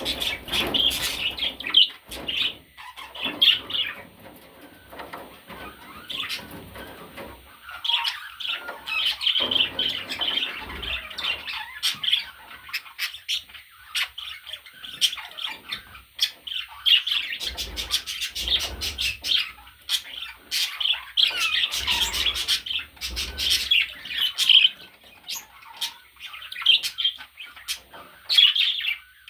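Pet budgerigar chattering and warbling: a fast, continuous run of chirps, clicks and squawks in bursts, with short lulls between them.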